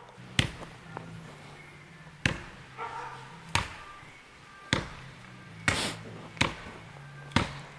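An axe chopping into a tree trunk: about seven heavy strikes, unevenly spaced roughly a second apart, each a sharp thwack with a short ring after it.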